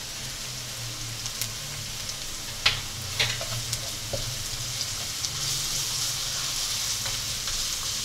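Chopped onions with cumin seeds and garlic paste sizzling in hot oil in a nonstick wok while a spatula stirs them, with a few sharp taps of the spatula on the pan. The sizzle grows louder in the second half, over a low steady hum.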